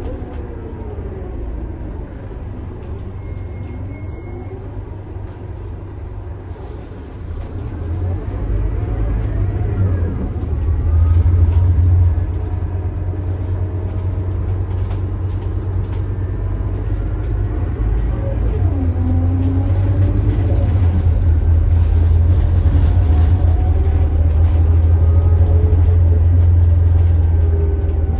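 Scania DC9 five-cylinder turbo diesel of a Scania K280IB bus running under way, with a heavy low rumble and whining tones that rise and fall. The sound builds from about a quarter of the way in, drops suddenly just under halfway, then builds again and eases off near the end.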